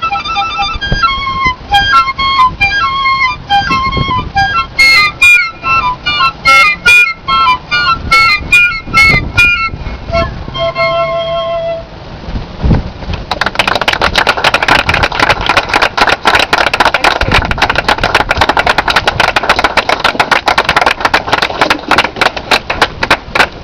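Two piccolos playing a quick passage of short, high notes, closing on one held note about eleven seconds in. A couple of seconds later an audience breaks into steady applause.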